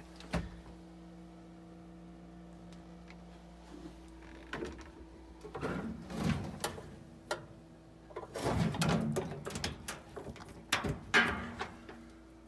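Galley cupboard doors and storage drawers being opened and shut, in several clusters of knocks and rattles, the loudest near the end, over a low steady hum.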